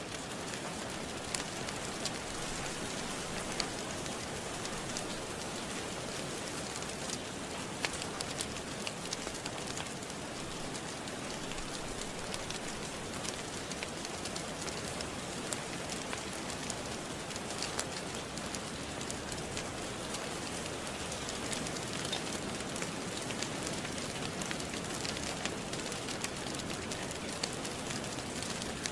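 Steady rain falling, mixed with scattered sharp crackles and pops of a wood fire in a fireplace.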